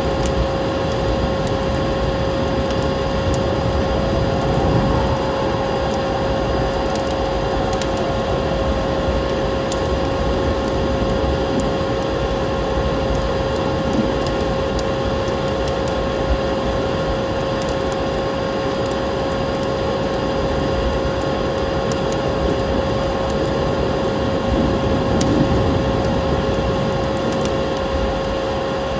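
Vacuum cleaner motor running steadily with a constant whine, layered with the sparse sharp crackles of a wood fire.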